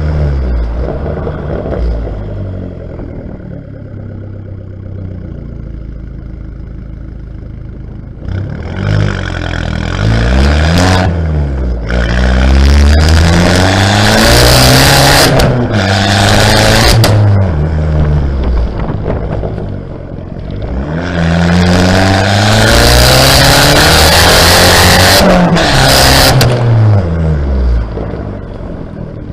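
Exhaust of a Fiat Bravo 1.4 T-Jet turbocharged petrol engine, heard from outside the car: it idles steadily for several seconds, then is revved up and down repeatedly in free revs, with two long high-rev stretches, before dropping back toward idle near the end.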